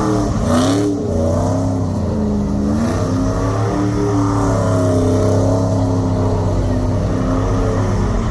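Car engine revving up and down repeatedly, its pitch rising and falling every second or so over a steady low drone.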